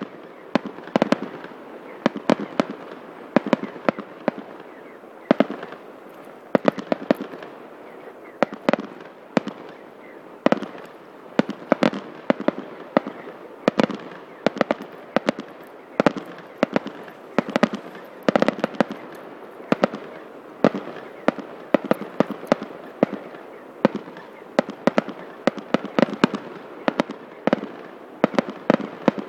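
Aerial firework shells bursting in a continuous barrage of sharp bangs, several a second and unevenly spaced, with no let-up.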